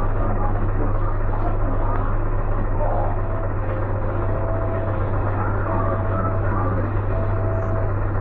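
A heavy vehicle engine, likely a truck's, running steadily with a low, constant drone. A faint whine comes and goes from about three seconds in.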